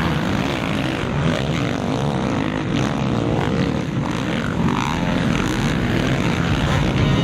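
Motocross bike engine running hard and revving up and down, mixed with a rush of wind noise.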